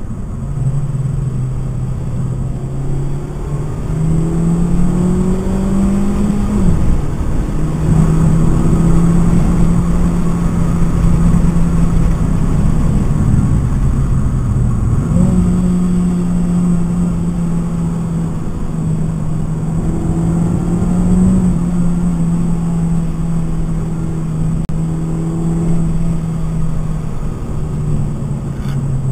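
Stock 2012 Mitsubishi Lancer's four-cylinder engine heard from inside the cabin at track pace: the revs climb over the first several seconds, drop sharply about seven seconds in, then hold high and steady with a brief dip about halfway and fall again near the end. Road and wind noise run underneath.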